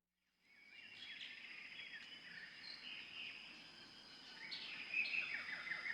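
Birds chirping and calling in a wetland, a quick run of short twittering calls over a steady thin high tone, fading in about half a second in and growing a little louder near the end.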